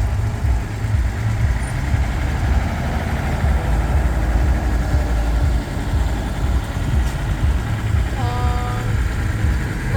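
Heavy diesel trucks rolling past slowly, their engines running with a steady deep rumble. A short steady pitched tone sounds about eight seconds in.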